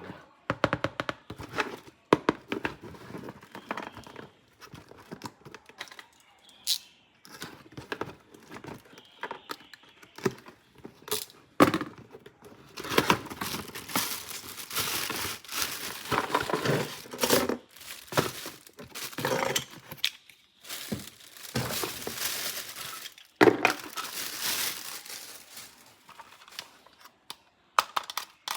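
Toy packaging being handled and opened: plastic and cardboard crinkling and tearing, with sharp clicks and knocks of parts being handled, and two longer spells of rustling about halfway through and again near the end.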